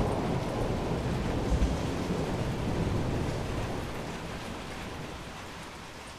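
A long roll of thunder over steady rain: the deep rumble is strong at first with a brief swell about a second and a half in, then slowly dies away, leaving the hiss of rain.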